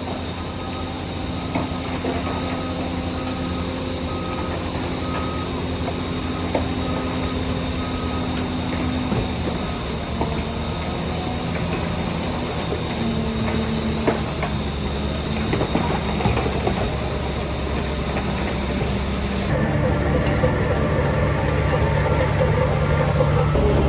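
Heavy diesel earthmoving machinery running steadily, with scattered clanks and a hiss. About twenty seconds in, the engine note deepens and grows louder.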